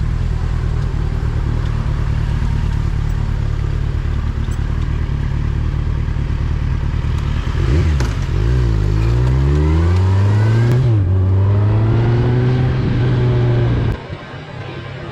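Motorcycle engine idling with a steady low rumble, then accelerating away with rising revs, a brief dip as it shifts up, and holding speed before the sound drops off suddenly near the end.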